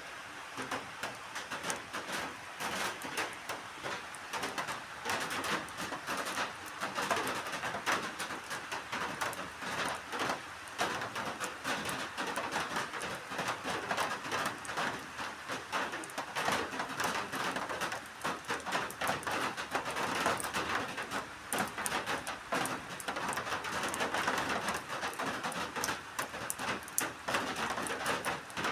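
Steady rain falling, with many individual drops tapping on surfaces throughout.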